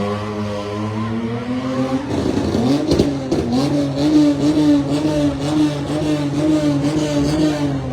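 Car engine revved high and held, its pitch jumping up about two seconds in and staying steady with a slight waver, then falling away near the end. A few sharp knocks come around three seconds in.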